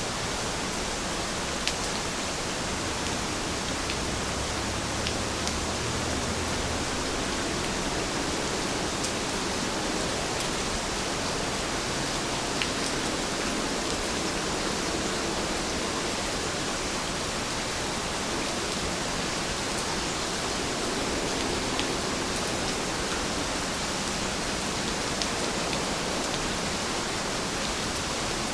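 Heavy rain falling steadily, an even hiss with a few brief drop ticks scattered through it.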